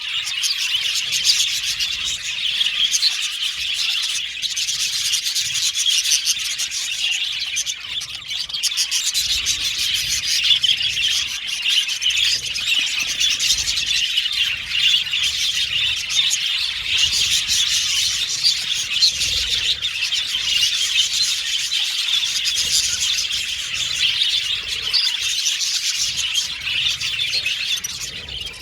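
Budgerigars chirping and chattering continuously, a dense, unbroken high-pitched chatter of several birds at once.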